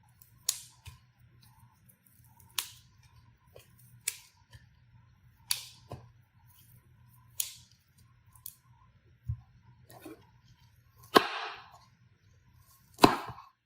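Knife chopping broccoli on a cutting board: sharp single chops every second or two, the two near the end the loudest.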